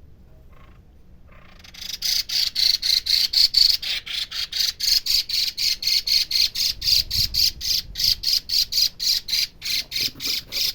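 A bird giving a rapid run of harsh, evenly repeated notes, about four or five a second, starting about two seconds in and keeping on. It is the alarm call of a nesting bird that feels disturbed.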